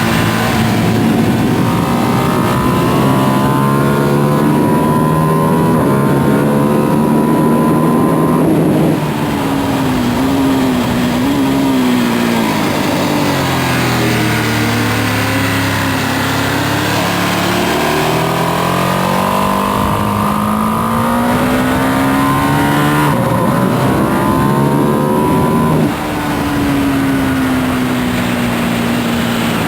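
Onboard sound of a 2025 Ducati Panigale V2S V-twin on its stock exhaust, with wind noise. The engine revs climb hard for several seconds, drop sharply about nine seconds in and wind down and back up through a corner, then climb again with gear changes about three-quarters of the way through before falling off near the end.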